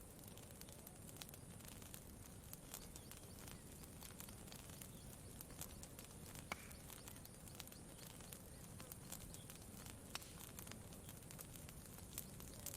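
Faint campfire crackling: irregular small pops and snaps, a few a second, over a steady low background hiss.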